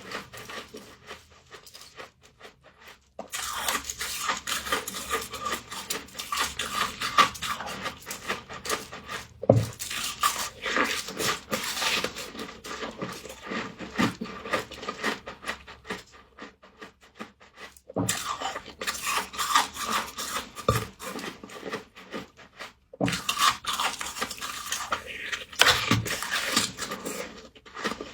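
Humidifier frost crunching as it is eaten, in bursts of dense crackling a few seconds long, with short pauses between them.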